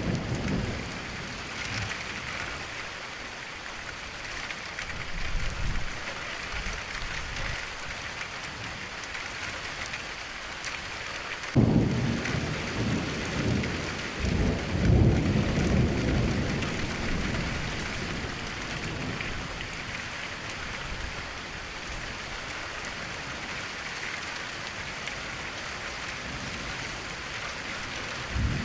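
Steady rain falling, with thunder: a sudden thunderclap a little under halfway through, then a low rumble that rolls on for several seconds, and fainter rumbles earlier.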